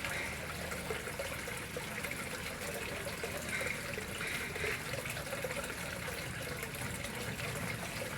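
Water flowing steadily into a koi pond, a continuous splashing trickle without pause.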